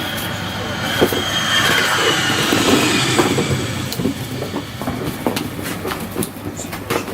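Recorded train passing, with a high steady wheel squeal that slowly falls in pitch over the first few seconds, played as part of a puppy sound-habituation programme. Short knocks and clicks come in the second half.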